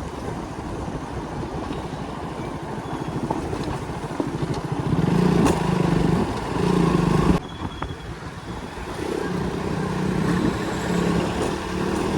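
Motorcycle engine running under way, with road and wind noise. The engine picks up from about five seconds in, cuts off abruptly just past halfway, then builds again.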